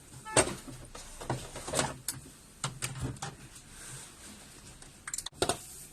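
Irregular plastic clicks and knocks from handling parts inside a washing machine while the pressure tube and water-level sensor are being worked on. The loudest knock comes about half a second in, with a quick cluster of clicks near the end.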